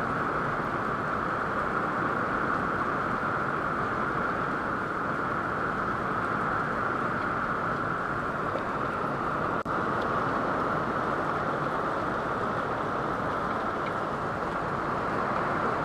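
Heavy rain coming down hard, a steady, really loud rush with a split-second break about ten seconds in.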